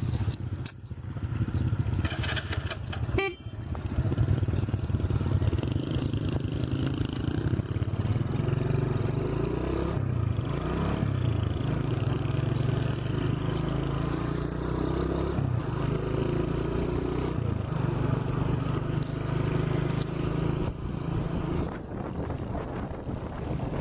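Small motorcycle engine running on the road, its pitch rising and falling as it revs. A vehicle horn honks briefly a couple of seconds in.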